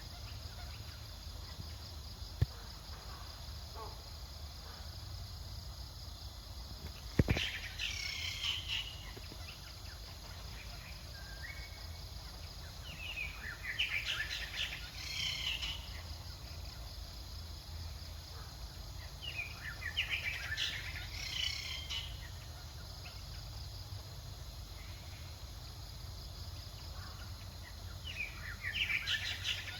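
Outdoor background noise with short clusters of high chirping animal calls about every six seconds. Two sharp knocks come in the first eight seconds.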